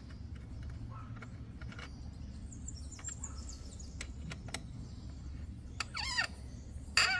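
Outdoor background with a steady low rumble and a few faint clicks, and a bird chirping briefly about six seconds in. A louder, harsher call begins right at the end.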